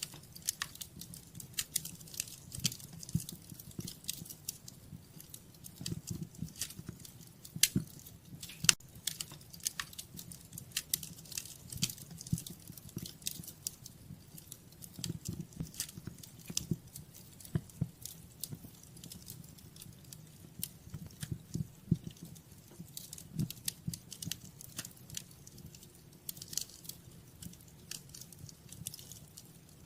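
Wood fire crackling in a fireplace: irregular sharp pops and snaps, a few louder ones around eight and nine seconds in, over a soft low rumble of the flames.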